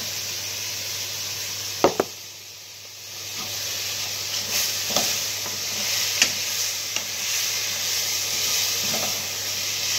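Chicken pieces sizzling in hot oil in a pan while being stirred with a wooden spatula, with scattered scraping clicks. Two sharp knocks come about two seconds in, after which the sizzle briefly dips.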